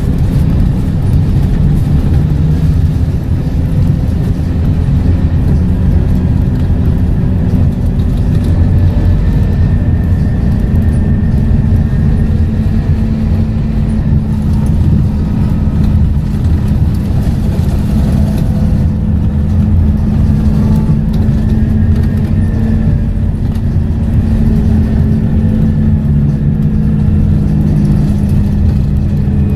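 Scania K230UB single-deck bus running along the road, its engine and ZF automatic gearbox giving a steady low drone with faint whines that slowly shift in pitch.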